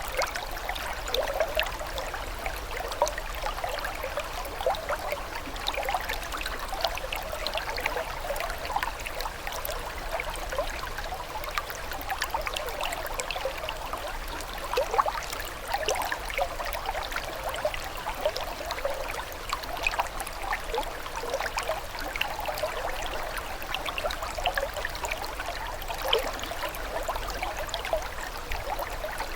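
Running water trickling and babbling steadily, like a small stream, with many small splashes and bubbling notes.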